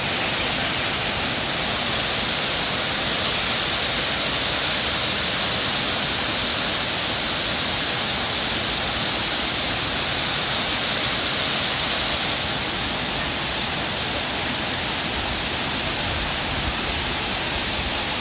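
Erawan Waterfall's water pouring and splashing, a steady dense hiss that swells slightly about two seconds in and eases back a little after about twelve seconds.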